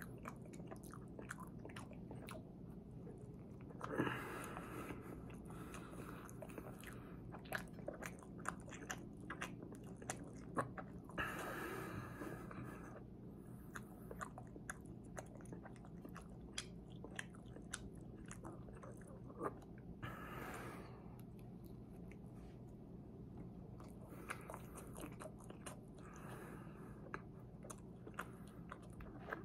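A person chewing and biting into chocolate-glazed eclairs, with many small wet mouth clicks and a few louder, longer bites spread through.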